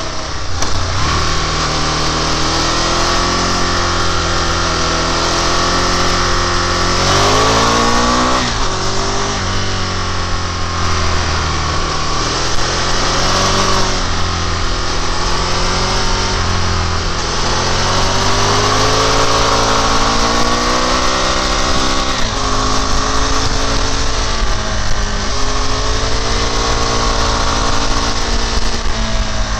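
Sport motorcycle engine riding a twisty road: the revs climb and fall again and again as it accelerates, shifts and backs off for bends, over a steady rush of wind noise.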